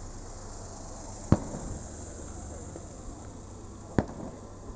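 Aerial fireworks bursting: two sharp booms, the first about a second in and the second near the end, over a crowd murmuring.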